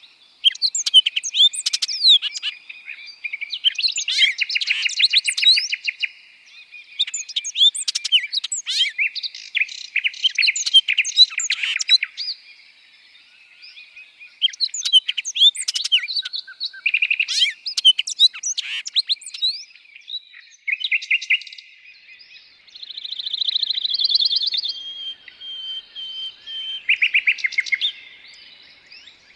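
Several songbirds singing and chirping: quick runs of high chirps and trills, with brief pauses between phrases.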